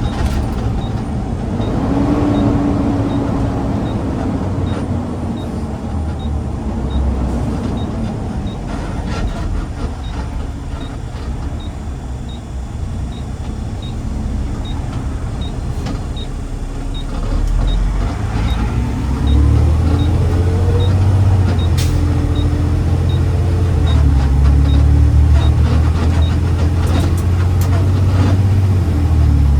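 Garbage truck driving, its engine running with a steady road rumble that grows heavier and louder from about two-thirds of the way in. A light regular tick sounds a little more than once a second through most of it, then stops.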